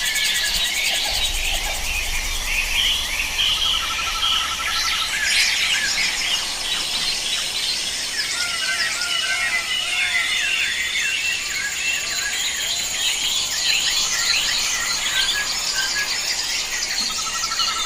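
A chorus of wild birds calling and singing in many short chirps and whistles over a steady high insect drone. A low rapid trill sounds twice, about four seconds in and again near the end.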